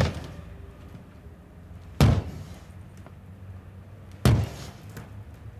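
Three heavy blows on a car, about two seconds apart, each a sharp bang that dies away quickly.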